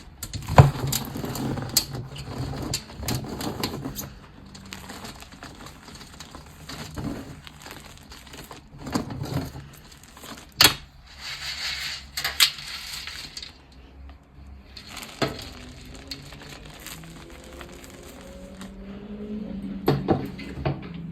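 Gym chalk being crushed and crumbled by hand: irregular sharp crunches and powdery crumbling, the loudest snaps near the start and about halfway through. A low hum rises in pitch over the last few seconds.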